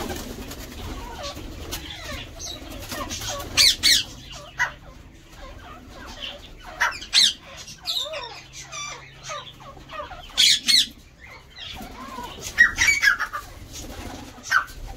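Colony of breeding cage birds calling, sharp chirps and squawks coming in clusters every few seconds over softer background chatter.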